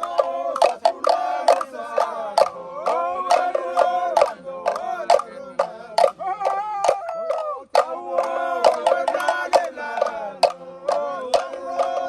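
Several voices singing a song together, with sharp percussive hits throughout.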